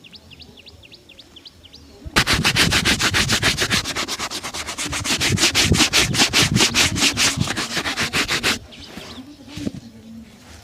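A shoe being buffed with rapid back-and-forth rubbing strokes, about seven a second. The strokes start about two seconds in and stop abruptly near nine seconds. Faint bird chirps come before them.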